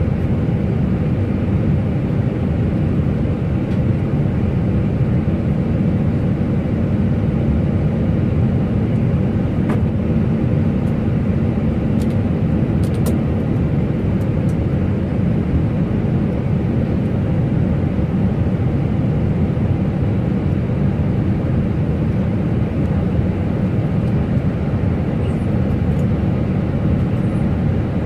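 Steady rumble of an Airbus airliner's jet engines and airframe heard inside the cockpit, with a few faint clicks near the middle.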